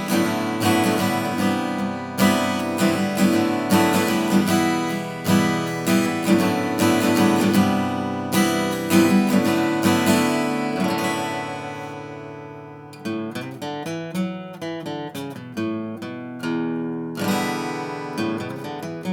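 Vintage Japanese steel-string acoustic guitar strummed in full chords, which are let ring and fade about two-thirds of the way through. Lighter, quicker picked or strummed notes follow near the end.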